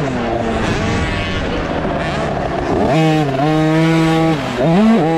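KTM 50 SX two-stroke minicycle engine revving hard on and off the throttle, its pitch rising and falling repeatedly. It holds high revs for about a second and a half in the middle, then drops and climbs again near the end.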